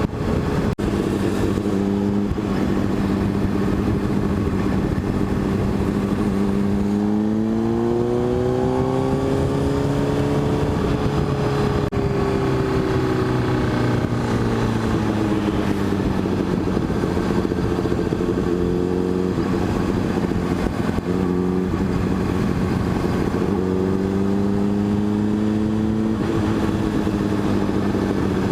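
A 600cc motorcycle engine running under way, over a steady rush of wind noise. The engine note holds steady, climbs as the bike accelerates about seven seconds in, and eases back down over the next several seconds. It climbs again briefly near the end.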